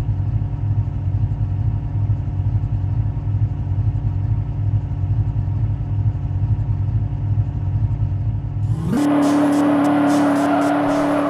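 A vehicle engine idling steadily and loudly. About nine seconds in, the sound changes abruptly to a steady hum over a wider hiss with regular clatter.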